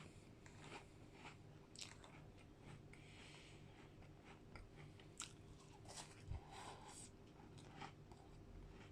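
Faint close-up eating sounds: a person chewing and crunching ice cream mixed with digestive biscuits, with scattered small crackles and clicks.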